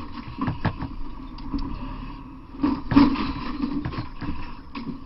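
A steady engine drone with irregular knocks and clatter over it, and one louder thump about three seconds in.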